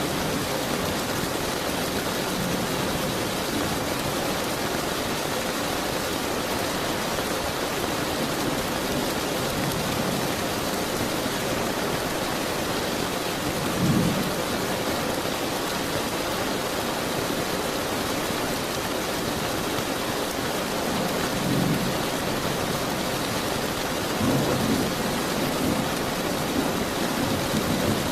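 Steady, heavy rain falling, with brief low rumbles of thunder about halfway through and twice more near the end.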